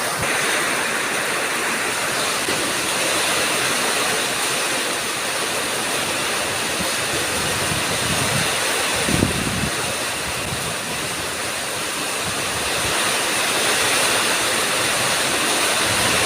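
Heavy rain pouring steadily in a rainstorm, with strong wind, and a brief low rumble about nine seconds in.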